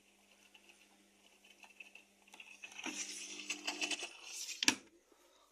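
Hotpoint Ariston VMSL 501 washing machine in its wash cycle: faint swishing, then about two seconds of louder swishing over a steady low motor hum as the drum turns, ending with a sharp click.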